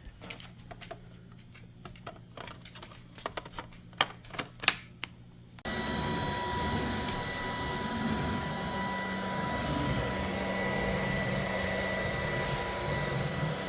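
A few handling clicks and knocks, then, a little over halfway in, a cordless stick vacuum with a brushless motor switches on abruptly and runs steadily: a rushing suction noise with an even whine.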